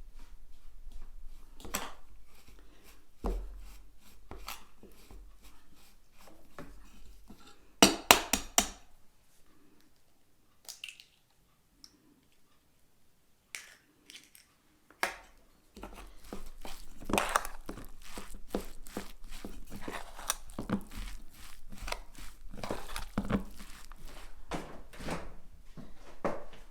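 Handling noise of crinkling, rustling and scattered knocks, with a quick run of several loud knocks about eight seconds in. It goes quieter for a few seconds after that, then the rustling and knocking pick up again and keep going.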